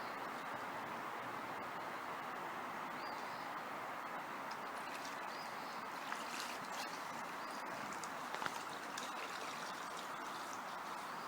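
Steady outdoor rush of water, with a few light splashes of a kayak paddle dipping in about halfway through and later. A few faint high chirps come through the noise.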